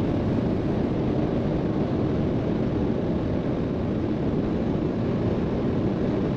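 Steady road and engine noise inside a car cruising at motorway speed.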